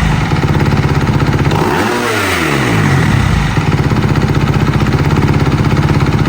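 Kawasaki KX250 dirt bike's single-cylinder engine, breathing through a new Yoshimura full exhaust with the baffle in, idling loudly. About two seconds in the throttle is blipped once: the revs rise and fall back to a steady idle. The exhaust note is deeper, like a 450, and not as raspy.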